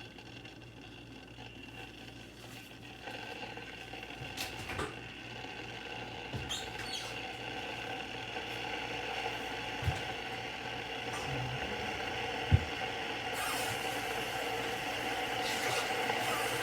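Stainless steel electric kettle heating water as it begins to boil: a steady rushing noise that grows gradually louder, with two small knocks midway.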